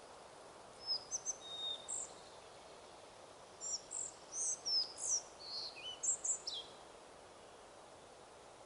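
A small songbird sings two short phrases of quick, high chirps and whistles, the first about a second in and a longer one from the middle, over a steady rush of wind in the forest.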